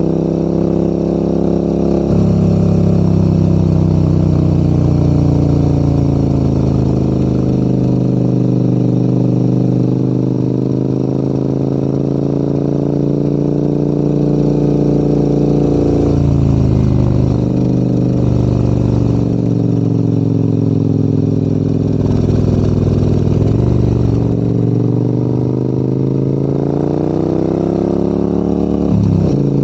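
Large adventure motorcycle's engine pulling uphill, its pitch rising and falling with the throttle. There are sudden pitch steps about 2, 16, 23 and 29 seconds in, typical of gear changes.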